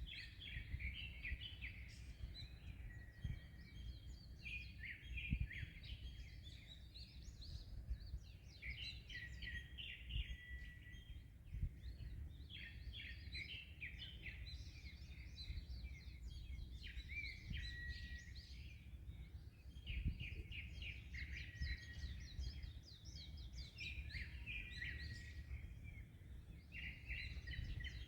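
Several small birds singing, with bursts of quick chirps and trills every few seconds, over a steady low rumble of wind and waves.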